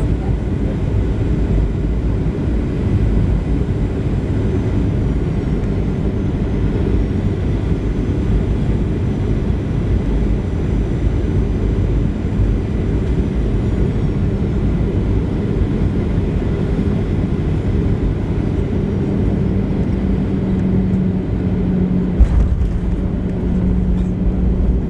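Cabin noise of a Boeing 737-700 with CFM56-7B engines: a steady rush of airflow and engine noise, with a low hum that grows louder in the last few seconds. A single sharp thump comes near the end.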